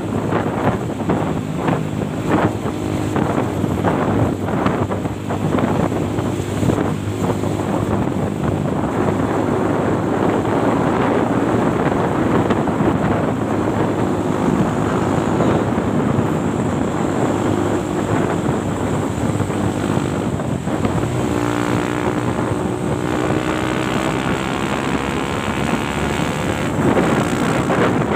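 Heavy truck engine running under load, with wind buffeting the microphone; its pitch climbs over a few seconds about three-quarters of the way through.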